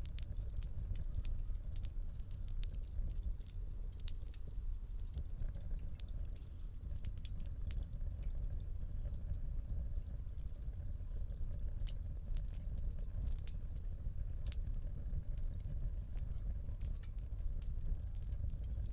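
Wood fire crackling in a fireplace: many small sharp pops and snaps over a steady low rumble of the flames.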